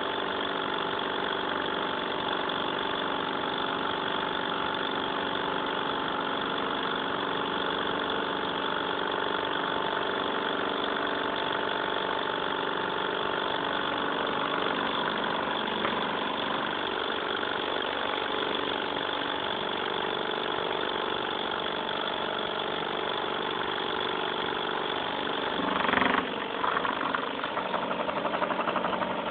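Stirling engine running steadily, with an even mechanical hum. Near the end there is a brief louder knock or clatter, and the sound turns uneven afterwards.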